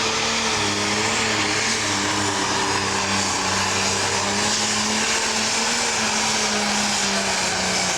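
Pro stock pulling tractor's turbocharged diesel engine running loud and steady, its pitch wavering only slightly, with a dense rushing noise over it.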